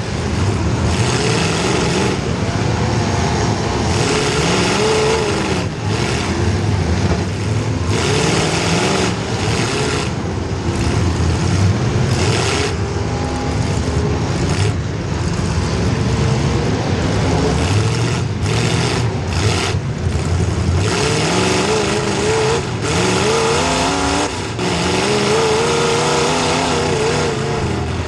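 Demolition derby car's small-block Chevy V8 running hard, its pitch rising and falling as the throttle is worked, with repeated bursts of harsher noise mixed in.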